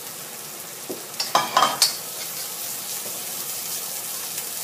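Curry paste of coriander, garlic, fresh turmeric and black pepper sizzling in hot oil in a wok as it is fried until fragrant. About a second in, a spatula scrapes and clanks against the pan a few times in quick succession.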